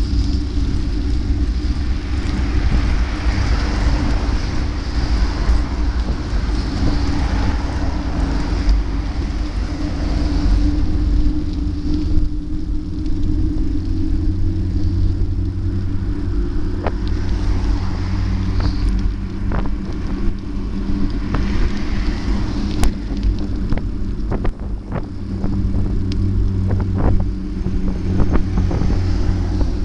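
A vehicle engine running steadily at cruising speed under a steady rush of wind and road noise, with scattered sharp clicks in the second half.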